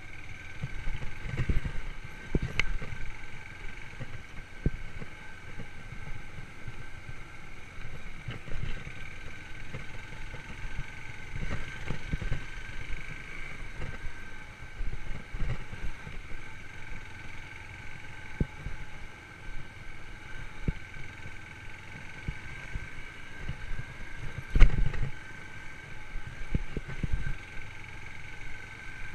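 Yamaha YBR125 single-cylinder four-stroke motorcycle engine running at fairly steady revs while riding over rough forest ground. Irregular low knocks and rumble from bumps and wind run through it, with the loudest knock about 25 seconds in.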